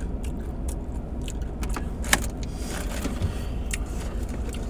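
Steady low rumble inside a car, with a handful of sharp little clicks and rattles scattered through it.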